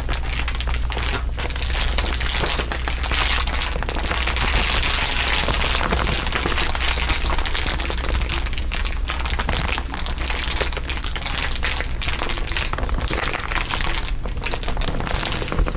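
Layered crinkling, a dense, continuous crackle of many small snaps, with a steady low hum underneath.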